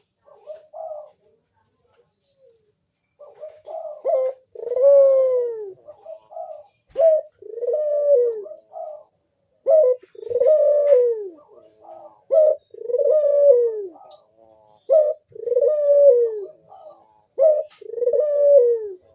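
Barbary dove (burung puter) cooing over and over: each call is a short clipped note followed by a longer coo that falls in pitch, repeated about every two seconds after a brief note near the start.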